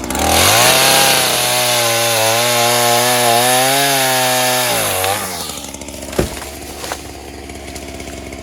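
Gas two-stroke Ryobi chainsaw throttled up to full speed, its pitch wavering under load as it cuts wood, then dropping back to idle about five seconds in. Two sharp knocks come while it idles.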